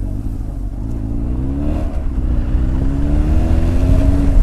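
Honda X4 motorcycle's inline-four engine pulling hard under acceleration. Its note climbs, drops with an upshift about two seconds in, then climbs again, over a growing low rumble of wind and road.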